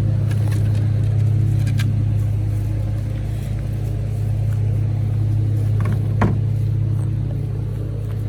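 Lawn mower engine running steadily with a constant low hum, with a couple of brief clicks partway through.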